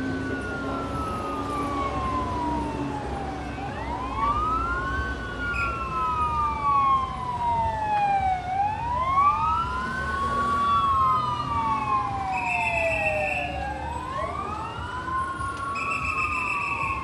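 Wail sirens of two fire engines responding to a call, each rising quickly and falling slowly about every four and a half seconds, slightly out of step with each other, over a low engine rumble. A short steady high tone sounds twice in the second half.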